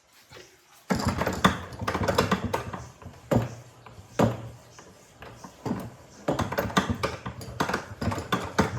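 A rapid, irregular run of clicks, taps and knocks starting about a second in, over a low hum.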